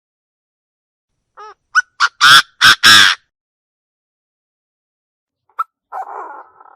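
Chinese francolin calling: a quick run of about six harsh notes, the last three the loudest, followed near the end by a softer, rasping note.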